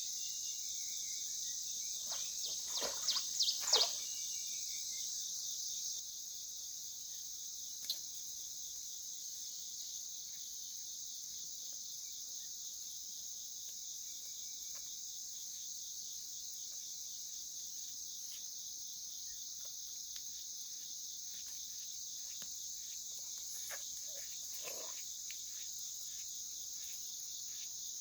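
Steady high-pitched chorus of night insects, with a few brief louder noises about three seconds in.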